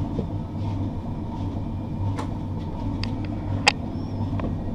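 Passenger train running on the rails: a steady low rumble with scattered light clicks, and one sharp click about three and a half seconds in.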